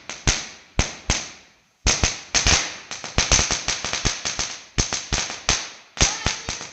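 Firecrackers going off: an irregular run of sharp cracks, several a second, with a brief break about a second and a half in.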